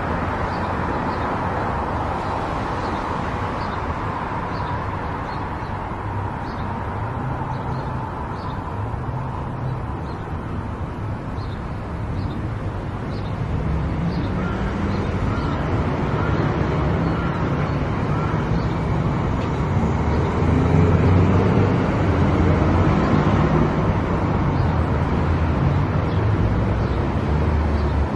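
Car driving along a road, with steady engine and tyre noise. The noise grows louder from about halfway in as the engine pulls harder. A faint tick repeats about once a second.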